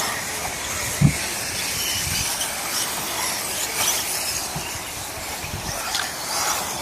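Radio-controlled 4WD off-road model buggies racing on a wet track: a steady hiss of motors and tyres, with a single heavy thump about a second in.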